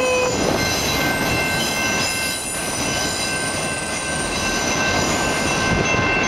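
A freight train of autorack cars rolls past at a grade crossing: a steady clatter and rumble of wheels on the rails, with a sustained high wheel squeal at several pitches over it.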